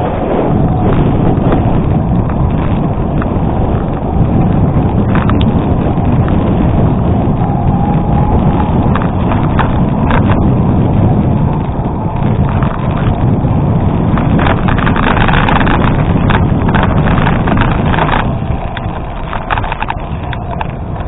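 Gravel bike rolling over an unpaved gravel road: continuous tyre crunch with wind noise on the microphone. A burst of rattling knocks from bumps comes about three-quarters of the way through.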